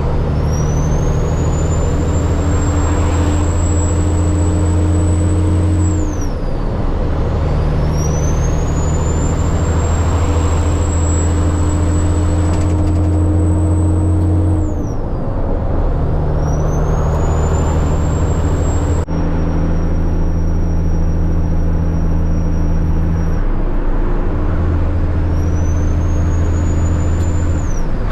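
Diesel dump truck engine pulling on the road, its note dropping and picking back up every few seconds as the gears are changed, with a high thin whistle that climbs after each shift.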